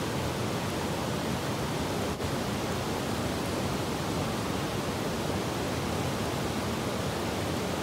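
Steady rushing of flowing stream water, an even hiss without breaks.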